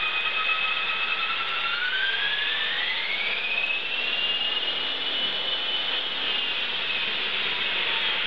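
Electric HK450 TT Pro RC helicopter running, its brushless motor and gear drive whining over the rotor noise. The whine rises in pitch about two seconds in as the rotor speeds up, holds, then eases slightly near the end.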